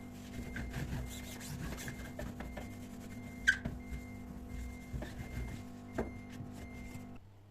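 Rubbing and scraping with small clicks as objects are handled, and one sharper click about three and a half seconds in. Under it runs a steady electrical hum that cuts off shortly before the end.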